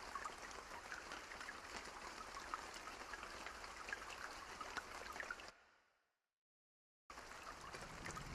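Steady rain with distinct drops falling, which fades out about five and a half seconds in to dead silence for about a second and a half, then starts again.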